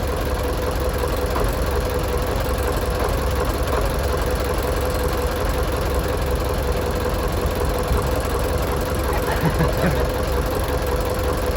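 An engine running steadily at idle: a constant low rumble with a steady hum over it.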